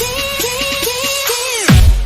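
Electronic budots dance music: a synth melody plays, then dives down in pitch about 1.7 s in and gives way to heavy booming bass kicks that each drop in pitch.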